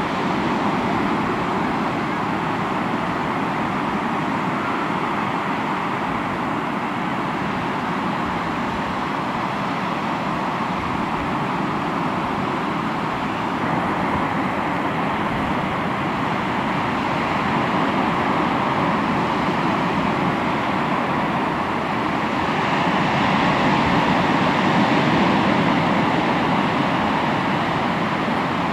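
Sea waves washing onto the shore in a continuous rushing wash that swells slowly, growing loudest about three-quarters of the way through.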